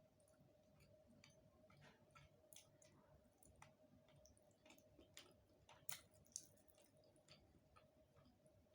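Faint, close-up eating sounds: irregular soft clicks and wet chewing of a rice and curry meal, with two sharper clicks about six seconds in.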